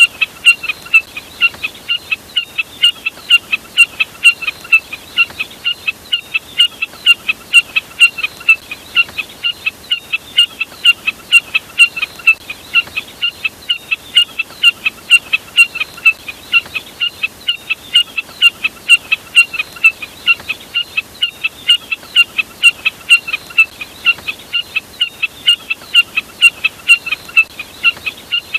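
Snipe (burcet) call, identified as the common jack snipe: short, sharp high notes repeated evenly at about three a second, on and on without a break.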